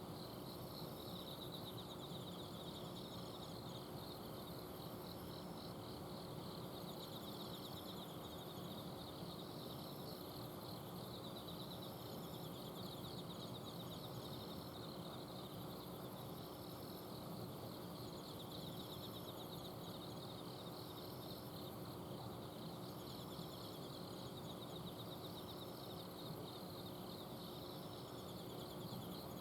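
Several kinds of autumn insects chirping and trilling together in steady, overlapping rhythmic pulses, over a constant low hum from an air conditioner's outdoor unit.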